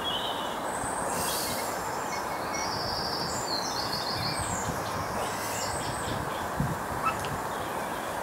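A small bird sings a few chirping phrases over a steady outdoor rush. A couple of faint crunches near the end come from boilies being crushed by hand over a bait bucket.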